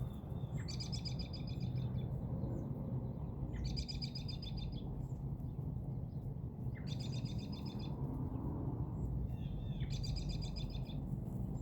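A songbird repeating a short, rapid trilled phrase about every three seconds, four times, each phrase about a second long and opening with a brief lower note. A steady low rumble of background noise runs underneath.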